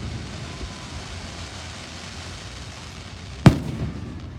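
Fireworks going off: a steady rushing noise, then one loud report about three and a half seconds in that rings on briefly after the bang.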